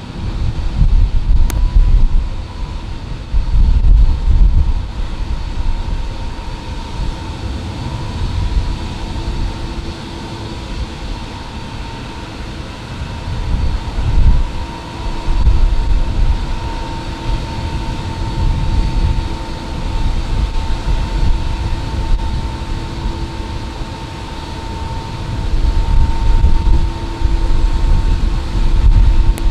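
Jet engines of an arriving VistaJet business jet giving a steady whine, with low gusts of wind rumbling on the microphone.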